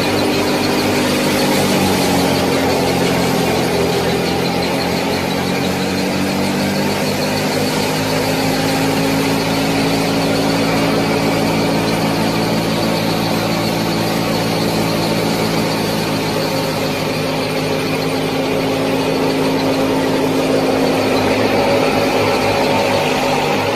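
A small motor running steadily with a whine, its pitch dropping about two seconds in and then holding steady.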